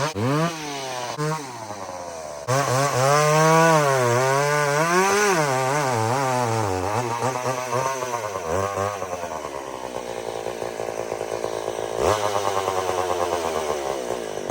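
Vintage two-stroke chainsaw running, its engine pitch rising and falling again and again. The sound changes abruptly about two and a half seconds in and again near twelve seconds.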